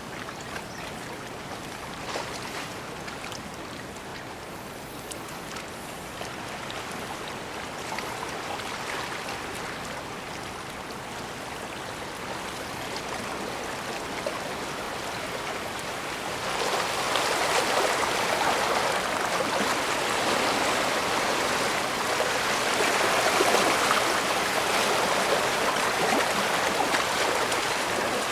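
Moving water rushing and splashing steadily, with fine crackling detail; it grows clearly louder a little past halfway through.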